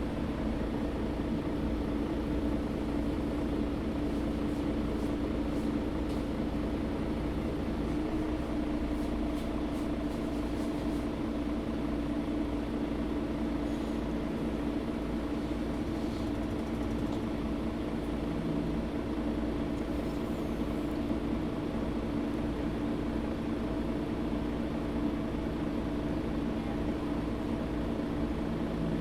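Mercedes-Benz O530 Citaro facelift articulated bus heard from inside the passenger cabin: a steady engine hum over low rumble, holding an even pitch throughout.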